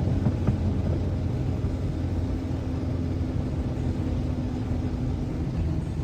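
Twin-turbocharged Coyote 5.0 V8 of a 2014 Mustang GT running at low revs, a steady low rumble, with a couple of small clicks about half a second in.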